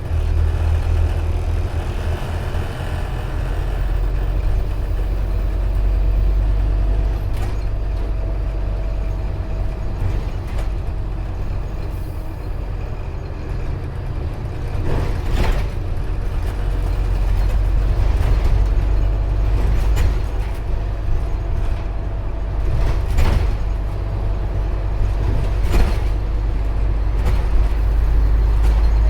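Scania OmniCity N230UD double-decker bus heard from on board while under way: a steady low engine drone, with sharp knocks and rattles from the body several times in the second half.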